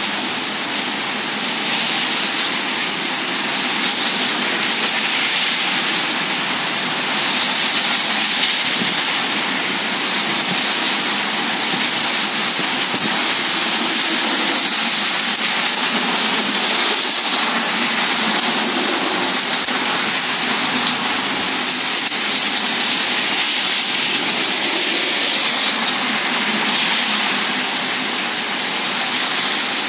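Heavy thunderstorm rain pouring down steadily, a dense, even hiss with no thunder.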